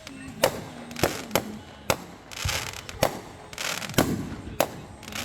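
Fireworks going off: about eight sharp bangs at uneven intervals, with hissing noise between them.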